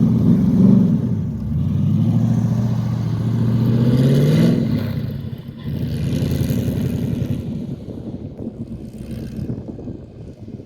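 A buggy's Chevrolet LS1 5.7-litre V8 engine running and being revved: its pitch climbs steadily for a couple of seconds, drops back, then the engine runs on and grows fainter.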